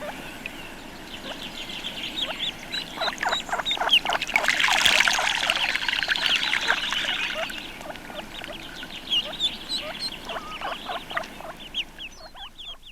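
A flock of tufted ducks calling, the drakes giving many short, soft whistling courtship notes that overlap one another. There is a louder rush of noise in the middle.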